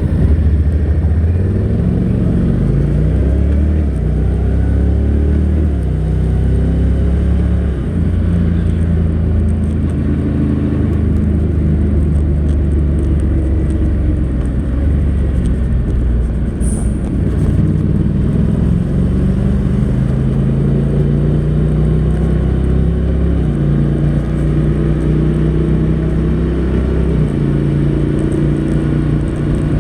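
Honda NC700X motorcycle's 670 cc parallel-twin engine through its stock exhaust while riding, the dual-clutch gearbox shifting on its own. The engine note holds steady for stretches and steps up and down in pitch several times.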